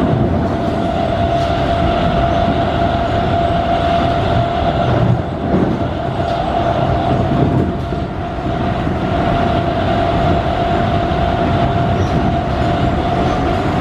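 MTR East Rail MLR electric train running with its nose-suspended traction motors whining at a steady, nearly unchanging pitch over a dense rumble of wheels on rail.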